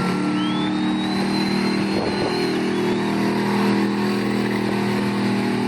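Street stock gas pickup truck engine running hard at high, steady revs while pulling the weighted sled. A thin high whine rises about half a second in and holds until about halfway through.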